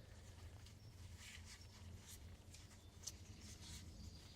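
Near silence: a faint low hum with a few soft, scratchy clicks.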